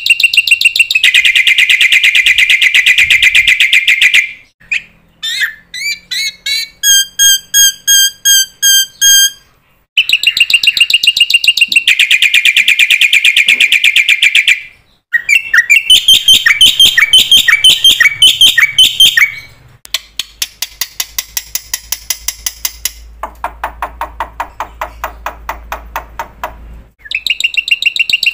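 Bird-like chirping: rapid, evenly spaced trains of high chirps and trills, in several different sequences that each start and stop abruptly every few seconds.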